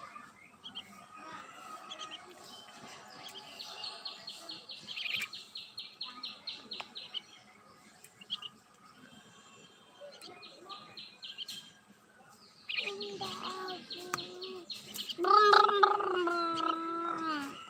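Small caged birds chirping in rapid, chattering runs of high notes, several times over. Near the end a louder, drawn-out pitched call, voice-like, comes in twice and is the loudest sound.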